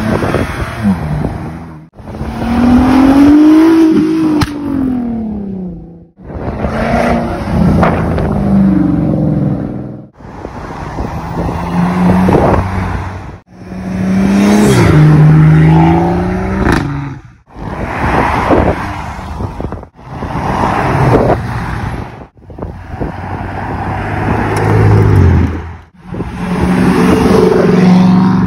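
Performance cars pulling away one after another, engines revving and accelerating as they pass, in a run of short clips that each cut off abruptly after a few seconds.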